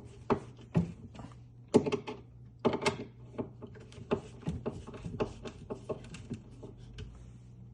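Irregular clicks and light knocks from screwdriver work on the screws of a cabinet door hinge and the door being handled. A few louder knocks come in the first three seconds, then a quicker run of small clicks.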